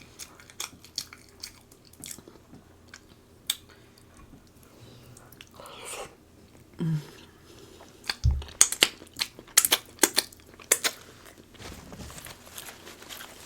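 A person chewing and biting seafood boil close to the microphone, with sharp wet mouth clicks. The clicks are sparse at first and come thick and fast after a low thump about eight seconds in.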